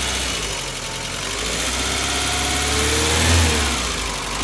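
Renault 21 Nevada's 2.2-litre fuel-injected eight-valve four-cylinder engine running. Its revs rise to a peak about three seconds in, then drop back.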